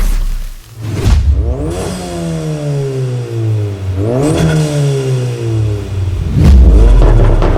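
Volkswagen Golf GTI TCR's turbocharged 2.0 TSI four-cylinder through an aftermarket Armytrix exhaust, revved twice. Each time the revs rise sharply, then fall away slowly over about two seconds, and a loud low rumble comes near the end.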